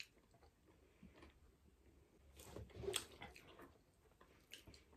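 Faint chewing of pizza with the mouth closed: a few soft wet smacks and clicks, bunched about halfway through and again near the end.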